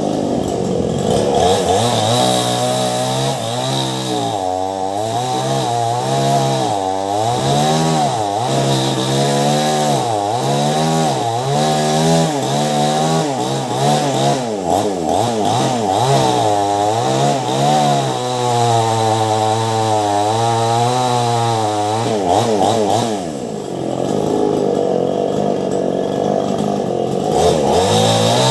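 Ryu chainsaw with a STIHL chain running at full throttle while cutting into a large mango trunk. The engine pitch wavers up and down as the saw labours in the cut, then dips and picks back up near the end.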